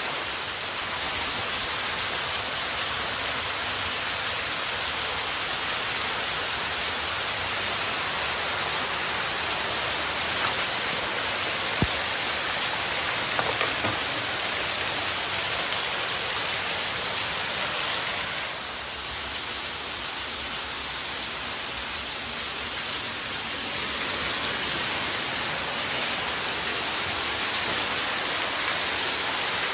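Waterfall: water rushing steadily over and out from under a pile of boulders, a dense even hiss that turns a little softer for about five seconds past the middle.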